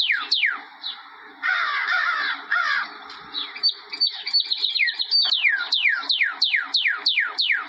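A bird calling: quick runs of falling whistled notes, about four a second, broken in the middle by a harsh chattering stretch and a burst of short high notes.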